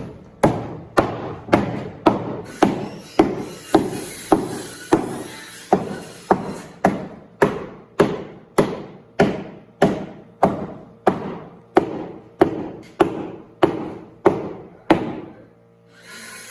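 Hammer blows struck at a steady pace, about two a second, stopping shortly before the end.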